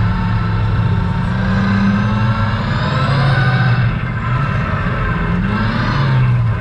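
Truck engine under load, climbing in pitch as it accelerates, easing off about four seconds in, then climbing again and dropping near the end.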